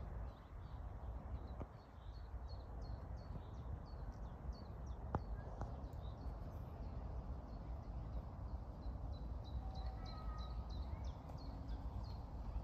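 A small songbird singing long runs of short, high repeated notes, about three or four a second, pausing for a couple of seconds midway and then resuming. Underneath is a steady low rumble, with one sharp click about five seconds in.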